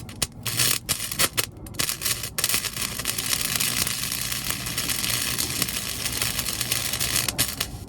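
Welding arc crackling as a bead is run on a car's sheet-steel floor pan. It comes in short spurts for the first two seconds or so, then runs continuously and stops near the end.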